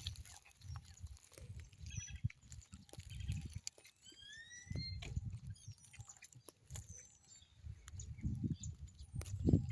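Outdoor bird calls: short chirps and a few rising and falling whistled notes, clearest about four to five seconds in, over irregular low rumbling.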